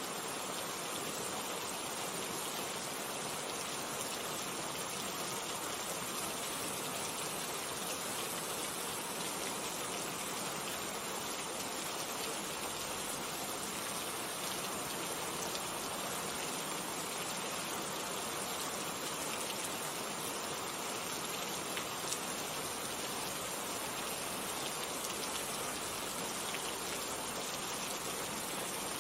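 Steady rain with individual drops pattering, an even hiss throughout.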